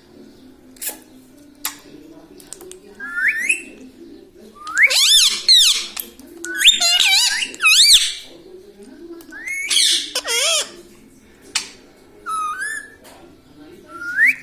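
Pet parrot calling: a series of short whistled squawks that slide up and down in pitch, coming a second or two apart.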